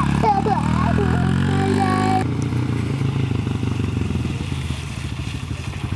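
Dirt bike engine running as it is ridden; its sound drops suddenly about two seconds in and then fades away over the next few seconds.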